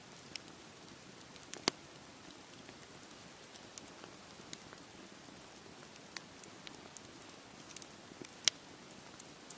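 Wood campfire crackling: scattered sharp pops, two of them much louder, one about two seconds in and one near the end, over a steady soft wash of sea waves.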